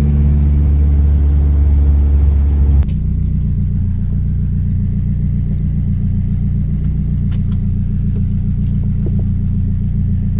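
Nissan S15 Silvia's turbocharged SR20DET four-cylinder engine running at steady revs. About three seconds in, the note drops suddenly to a lower, lumpy idle that carries on to the end.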